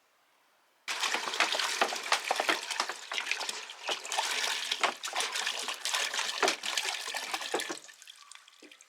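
Water pouring and splashing, starting suddenly about a second in and stopping near the end.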